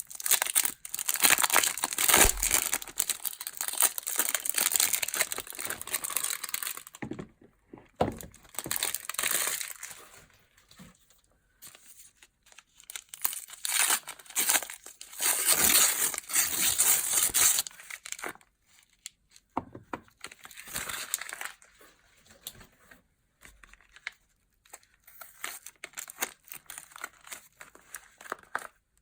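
Soap packaging crinkled and torn open by hand, in bursts of crackling with short pauses between them. The loudest stretches are in the first seven seconds and again in the middle, with lighter scattered taps and rustles towards the end.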